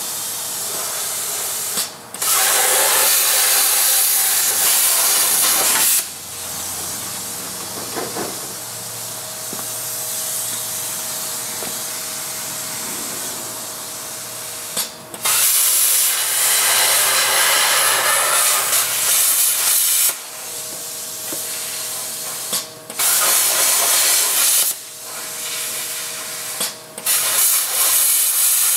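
Plasma cutter cutting through truck sheet metal in several loud hissing passes of a few seconds each, with a quieter steady hiss between them.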